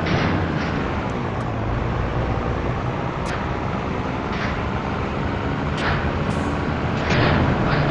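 Scania T113 truck's 11-litre six-cylinder diesel running steadily on the road, a constant low drone. Several short whooshing swishes come and go over it, the loudest near the end.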